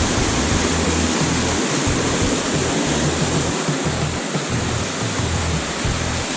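Steady rush of flowing stream water, with irregular low buffeting on the microphone underneath.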